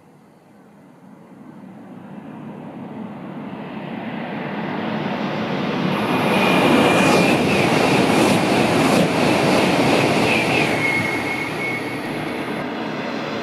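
E2 series Shinkansen approaching and passing beneath at high speed. A rushing wind-and-wheel noise builds steadily to a peak about six seconds in, with a steady high whine and a quick run of rhythmic thuds as the cars go by, then eases off near the end.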